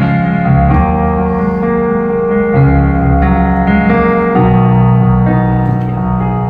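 Live instrumental intro of a slow country ballad, with no singing yet: sustained chords that change about every two seconds.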